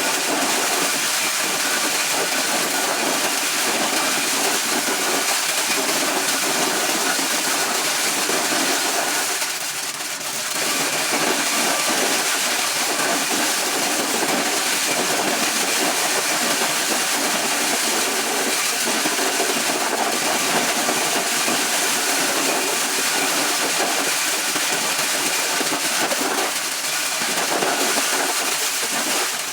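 Corn-shelling machine running steadily, a loud even noise with a brief dip about ten seconds in.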